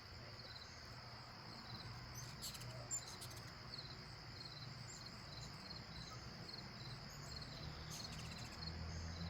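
Insects chirping steadily in short, evenly repeated high pulses, with brief sharp high-pitched chittering bursts about two and a half seconds in and again near the end, typical of hummingbirds squabbling.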